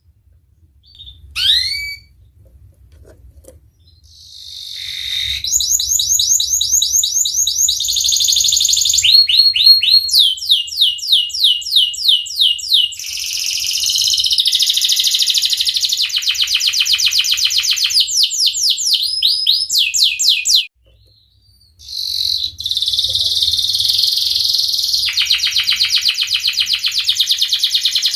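Domestic canary singing a long song of fast rolling trills, quick rising notes repeated many times a second, after a few short chirps at the start. The song breaks off for about a second near the three-quarter mark, then the trilling resumes.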